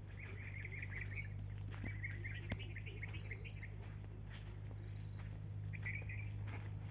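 Small birds chirping in quick twittering phrases, three times, over a steady low hum, with a few soft footsteps and one sharp click.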